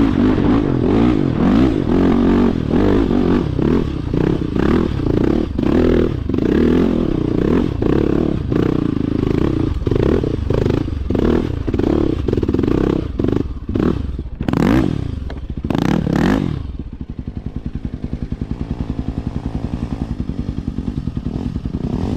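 A motorcycle engine revving hard and unevenly up a steep off-road climb, with clatter from the bike. About 15 s in come several loud knocks and scrapes as the climb fails and the bike goes down, after which the engine settles to a steady idle.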